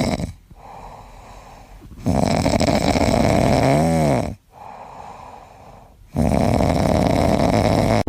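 Loud snoring: long snores about four seconds apart, with quieter breathing between, one ending in a short whistling tone.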